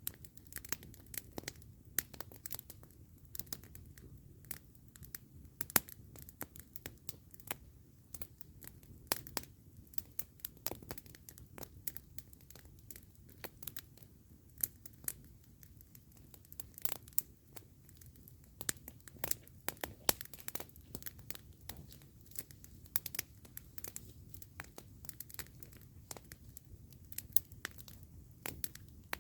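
Campfire crackling: a steady stream of irregular sharp pops and snaps over a low, even rumble.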